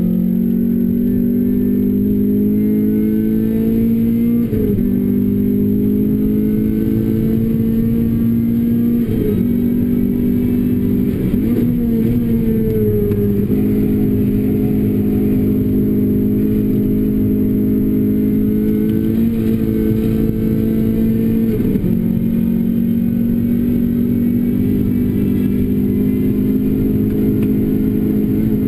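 Renault Clio RS engine through a Bastuck aftermarket muffler, pulling hard at high revs: the note climbs steadily and falls sharply at each upshift, four or five times, with a brief unsettled stretch near the middle.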